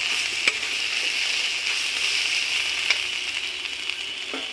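Onions and a pounded spice masala sizzling steadily in hot oil in a metal kadhai, slowly growing quieter, with a couple of sharp clicks from the steel spatula against the pan. The masala is at the bhuna stage, being fried before water goes in.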